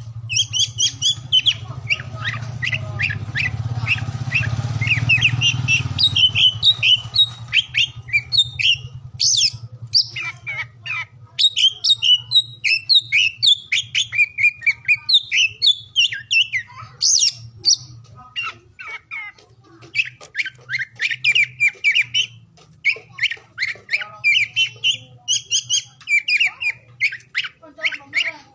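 Oriental magpie-robin (kacer) singing: a fast, varied run of chirps, trills and sharp whistled notes with short pauses between phrases. A steady low hum lies beneath, louder in the first six seconds.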